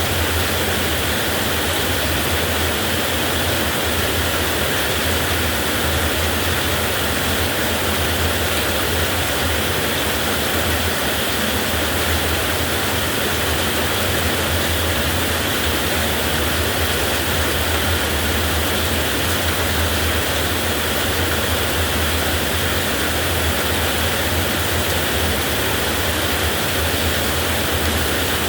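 Heavy rain pouring steadily, a dense even hiss with no thunderclaps.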